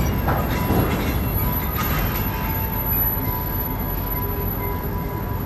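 Freight train shunting in a marshalling yard: a steady low rumble of the locomotive and rolling wagons, with a thin steady squeal-like tone above it and a few brief sounds in the first two seconds.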